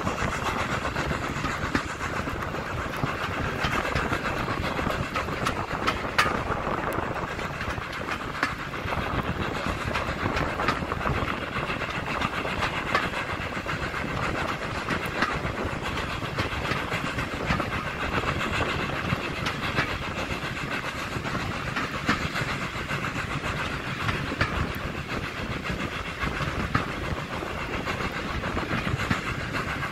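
Steam-hauled passenger train running along the line, heard from an open carriage window: a steady rumble and rush of the moving train, with scattered clicks from the wheels on the track.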